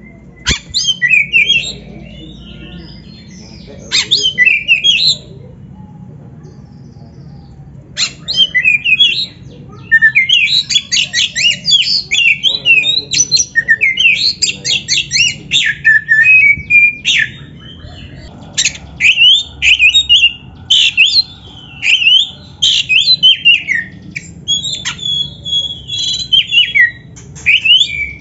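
Oriental magpie-robin (kacer) singing: rapid, varied whistled and chattering phrases. Short bursts come first, and from about ten seconds in the song runs nearly without pause.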